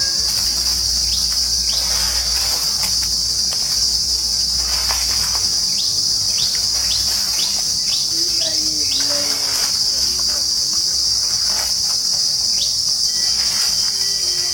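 Insects in the trees making a loud, steady, high-pitched drone. In the middle a bird gives a quick run of short falling chirps, about two a second.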